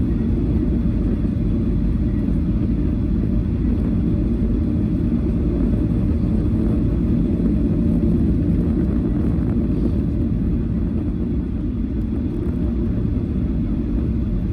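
Steady low rumble of aircraft cabin noise inside a Boeing 737-800: engine and airflow noise heard from a passenger seat.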